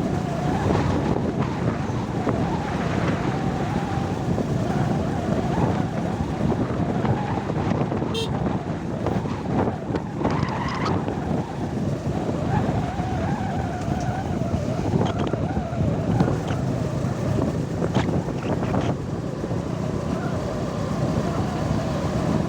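A vehicle engine running while travelling along a road, its pitch drifting up and down with speed, with wind buffeting the microphone.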